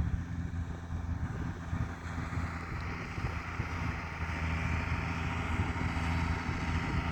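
Fendt Farmer 312 tractor's diesel engine running steadily under load while it pulls a disc harrow across a meadow.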